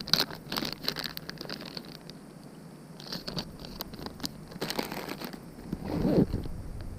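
Crinkling and rustling of plastic packaging being handled while a soft-plastic bait is taken out and rigged. Scattered sharp crackles run through it, and a louder rustle comes about six seconds in.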